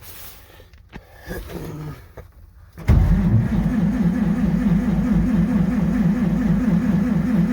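Starter cranking a cold carbureted engine with an even, rapid pulse. It starts abruptly about three seconds in and keeps on without the engine catching, which is typical of a cold start with the manual choke not pulled.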